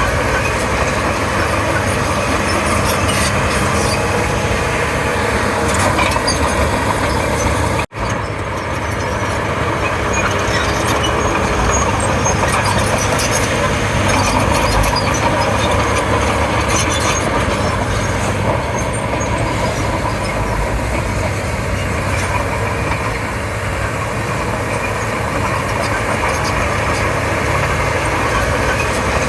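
Komatsu D31P crawler bulldozer's diesel engine running steadily with track and machine noise. The sound cuts out for an instant about eight seconds in.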